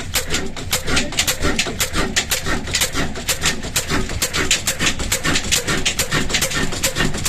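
Old 18 HP diesel engine running just after a cold start, with a steady, even beat of about five firing strokes a second.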